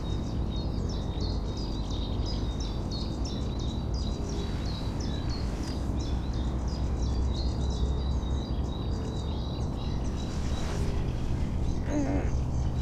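Songbird singing a long run of short, high, repeated chirps, several a second, over a steady low rumble of outdoor background noise.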